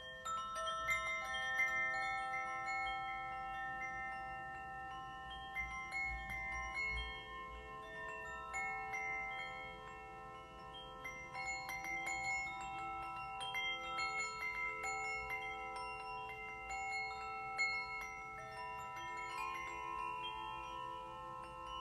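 Ringing metal percussion: single notes struck one after another, each ringing on for several seconds so that they overlap into a slow, gentle melody.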